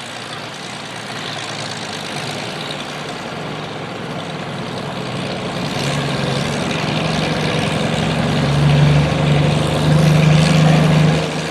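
Antique farm tractor engine running with a low, steady drone that grows louder from about six seconds in.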